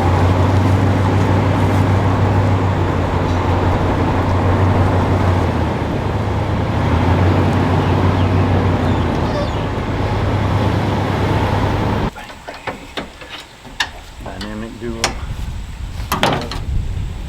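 A vehicle engine running steadily close by, with a strong low hum, that cuts off suddenly about twelve seconds in; scattered knocks and clicks follow.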